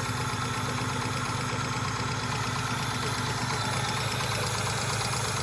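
Hyundai Tiburon engine idling steadily with a misfire and a fast ticking knock, which the owners take for lifter tick rather than rod knock.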